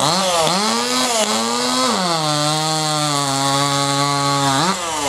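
Small two-stroke chainsaw at full throttle in a timed log cut. It revs up and down, then pulls down to a lower steady pitch for about two and a half seconds under load in the wood. Near the end it revs up sharply and then drops away.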